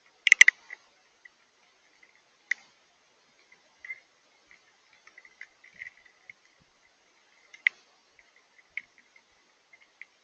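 Drips of falling rain and snow heard as irregular ticks and taps, with a quick burst of loud taps about half a second in and scattered fainter ones after.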